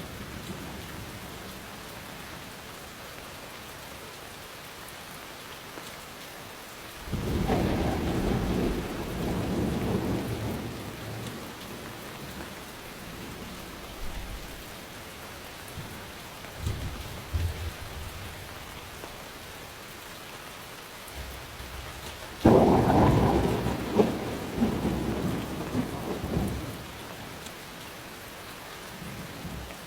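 Steady rain with thunder: a rolling rumble about seven seconds in, and a louder, sharper crack about two-thirds of the way through that rumbles on for a few seconds. Fainter distant rumbles come in between.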